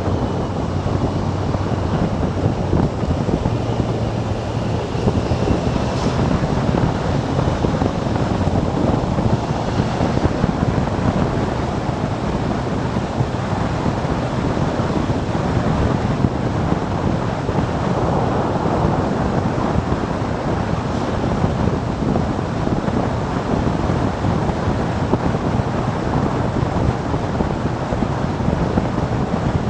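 Steady wind rush over the microphone of a motorcycle riding at road speed, with the engine's low drone faintly beneath it in the first few seconds.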